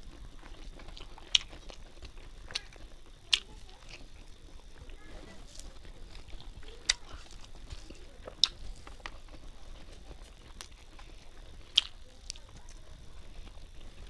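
Close-up chewing of a mouthful of rice and fried fish, with sharp wet clicks every second or two.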